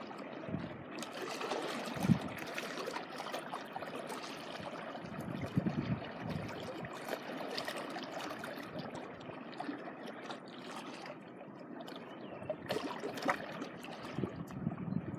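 Small waves washing and trickling over the shore, a steady wash of water with irregular splashes.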